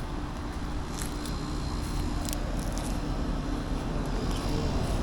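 Outdoor air-conditioning condenser units running: a steady hum over a low rumble, with a few light clicks about one and two seconds in.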